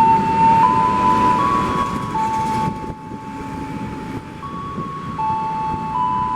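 Electronic chime melody played over a railway station's public-address system: a slow tune of clear single notes, each held about half a second to a second, over a low background rumble.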